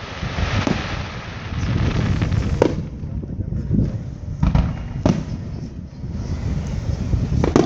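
Aerial fireworks going off: about five sharp booms spread a second or two apart, over a low rumble, with a dense crackling in the first couple of seconds.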